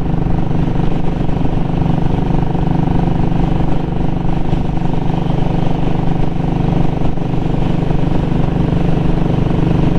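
2017 Royal Enfield Classic 500's single-cylinder engine and exhaust, run with the muffler baffle removed, holding a steady note while riding.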